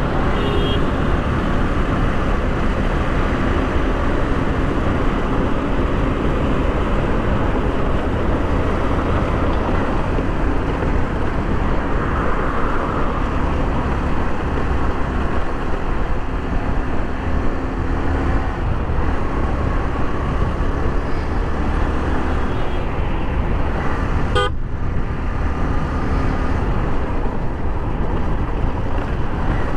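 A Yamaha R15 V3 motorcycle riding on a highway: its single-cylinder engine runs under steady wind and road noise, with traffic and vehicle horns around it. The sound drops out briefly about 24 seconds in.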